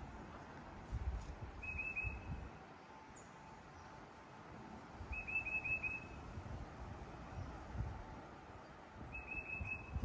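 A songbird singing a short phrase of four or five quick, high whistled notes, three times a few seconds apart, over intermittent low rumbling.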